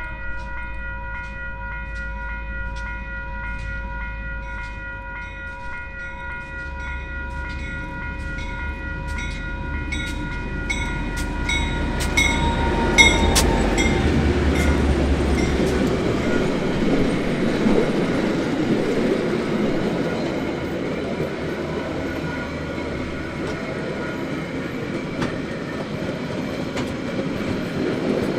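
Diesel-electric locomotives approach and pass close by. Their steady engine drone and a train of regular wheel clicks build to a peak about 13 seconds in. Then the carriages roll past with a steady rumble and rattle of wheels on the rails.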